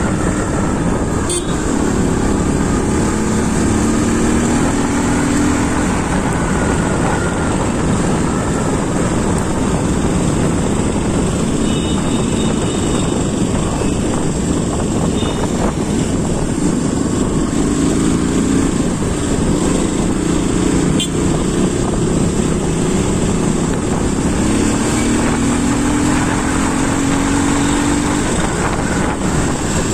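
An engine running steadily, loud, its pitch drifting slowly up and down.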